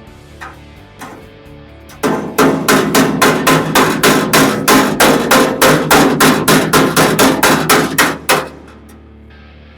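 Hand hammer striking sheet metal in a fast, even run of about two dozen blows, roughly four a second, starting about two seconds in and stopping a little before the end. Background music plays underneath.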